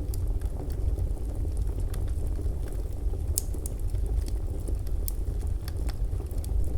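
Fireplace fire crackling: a steady low rumble from the flames, with irregular sharp pops and snaps from the burning wood.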